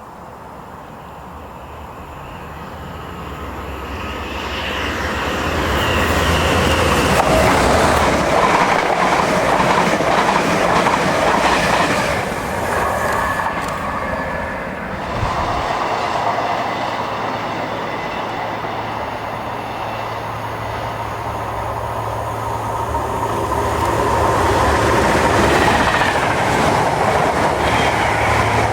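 Diesel-locomotive-hauled passenger train of Mk3 coaches passing. It grows louder over the first several seconds, and the wheels clatter over the rail joints. A steady low engine drone comes through, loudest in the second half.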